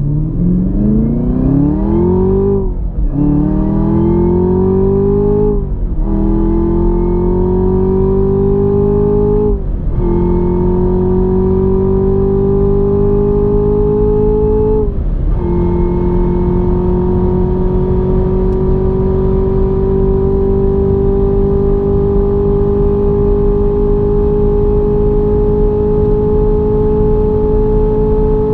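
Sports car engine under full-throttle acceleration, its pitch climbing steeply through the gears with four quick upshifts, each dropping the revs before they rise again. After the last shift, about fifteen seconds in, it holds a steady, slowly rising note in a high gear.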